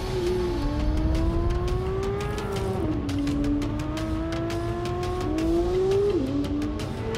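Porsche 911 GT3 (992)'s 4.0-litre naturally aspirated flat-six accelerating hard, its pitch climbing in each gear and dropping sharply at quick upshifts about three seconds in, about six seconds in and again just before the end.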